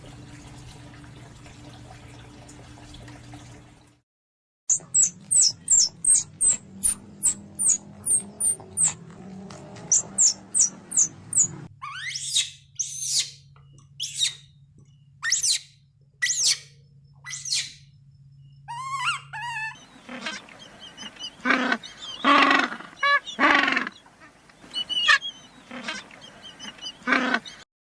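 A series of bird calls. After a steady low hum, rapid high chirps come about twice a second, then loud sweeping whistled calls about once a second, then harsher squawking calls.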